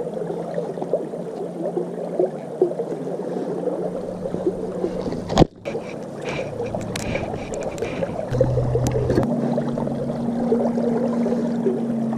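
River water running and gurgling over stones, steady throughout, with one sharp click about five seconds in.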